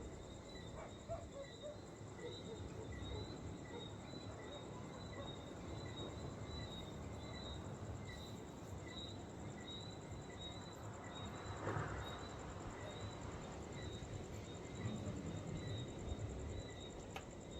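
Insects chirping: a short chirp repeated about twice a second with a steady high trill above it, over a low rumbling background noise. A brief louder swell of noise comes about two-thirds of the way through.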